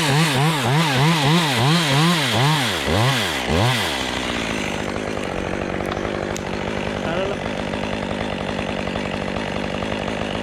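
Chainsaw at high revs, its pitch swinging up and down about twice a second as it is throttled through a cut. About four seconds in the swings stop and the saw settles into a steadier, quieter run.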